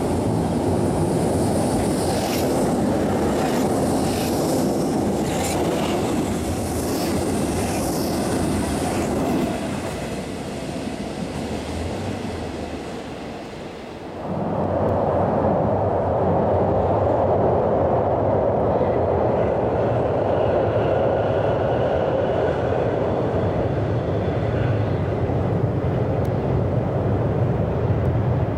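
Hamburg S-Bahn electric trains running over a steel truss railway bridge: a rumble of wheels on the rails with rapid clicks that die away after about ten seconds. After an abrupt change about halfway through comes a louder, steady rumble with a faint high whine.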